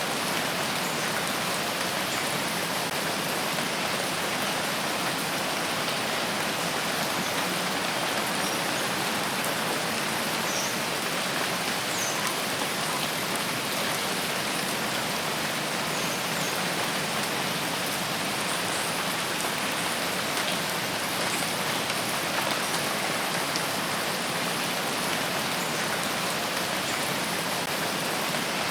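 Steady rain falling through a forest, a dense even hiss with faint scattered drip ticks.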